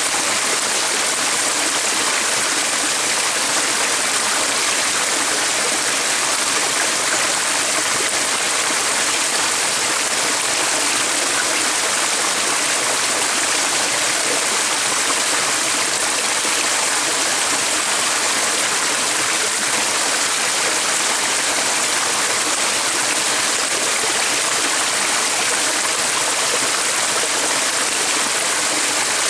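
A stream flowing steadily, an even rushing of water that does not change.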